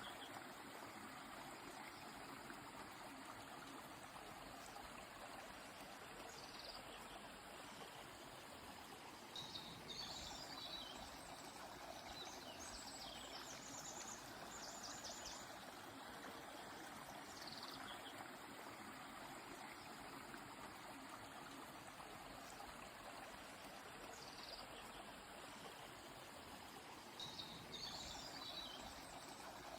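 Faint, steady rush of a flowing river, with birds singing over it: single short falling calls every several seconds, and bursts of rapid, high twittering notes about a third of the way in and again near the end.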